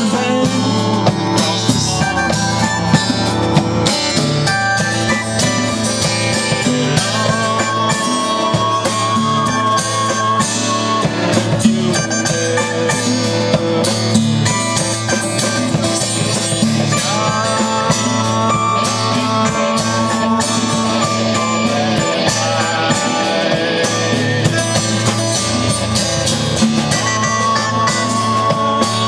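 Live band playing an instrumental rock jam: guitars over a steady drum beat.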